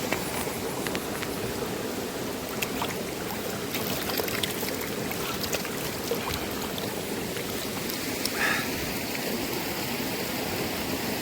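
Mountain river flowing steadily, with scattered ticks of raindrops over it; a short higher-pitched sound stands out briefly about eight seconds in.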